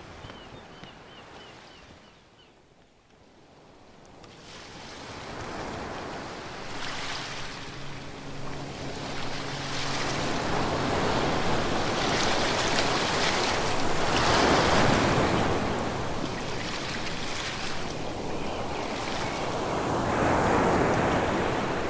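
Ocean waves breaking and washing ashore: a brief lull, then the surf builds in slow swells, loudest a little past the middle and again near the end.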